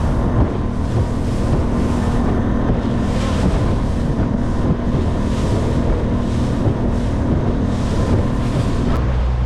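Bass Tracker boat's outboard motor running steadily under way, with heavy wind buffeting the microphone and water rushing past the hull. The motor's note shifts near the end.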